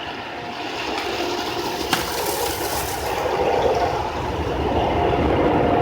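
Automatic car wash running over the car, a steady rushing noise heard from inside the cabin, with a sharp click about two seconds in and a low rumble building in the second half.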